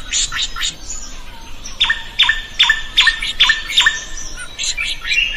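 A drongo singing: a few quick sharp chirps, then a run of about six ringing, evenly spaced notes at roughly two to three a second, and quicker chirps again near the end.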